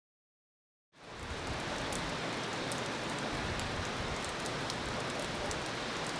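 Steady rain falling, with scattered sharp ticks of drops hitting a surface. It fades in about a second in, after a moment of dead silence.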